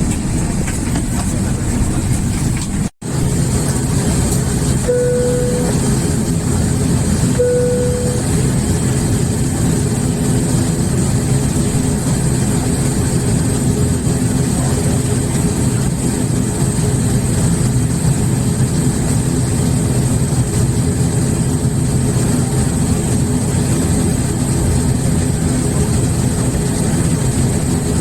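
Turboprop airliner's propeller engines running steadily, heard from inside the cabin. Two short chime-like tones sound about five and seven and a half seconds in, and the sound cuts out for an instant about three seconds in.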